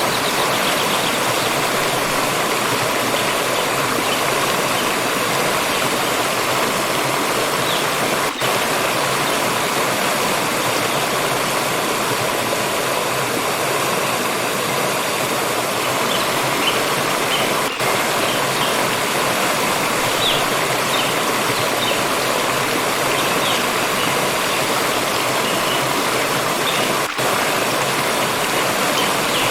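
Stream water rushing and splashing in a steady, dense flow, with three brief dips in level about nine seconds apart.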